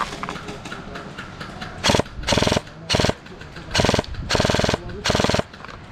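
Airsoft gun firing on full auto in six short bursts, close to the microphone. Each burst is a rapid rattle of shots lasting under half a second.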